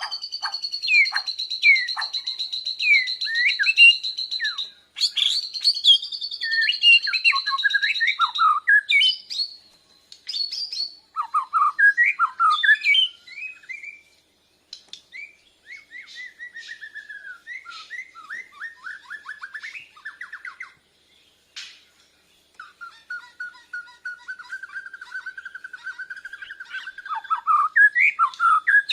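Bornean white-crowned shama (murai batu Borneo) singing a long, varied song. It has clear held whistles, runs of fast falling notes and rapid trills, broken by short pauses.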